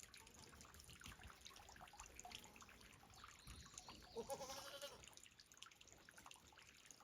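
A goat gives one short, faint bleat about four seconds in, over quiet outdoor background.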